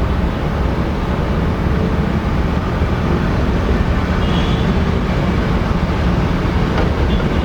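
Aircraft engine noise, a steady low rumble.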